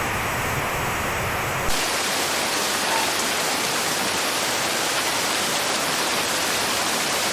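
Steady rushing noise of heavy water, floodwater or downpour, with a slight change in its character a little under two seconds in.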